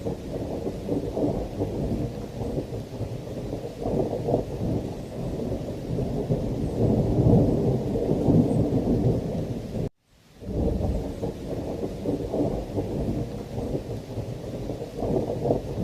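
Thunderstorm: a continuous low rumble of thunder under steady rain, swelling loudest around the middle. The sound cuts to silence for a split second about ten seconds in, then resumes.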